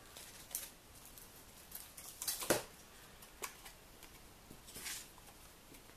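Paper craft pieces being handled while glue dots are pressed onto the back of a paper panel: a few light clicks and taps, the sharpest about two and a half seconds in, and a short paper rustle near the end.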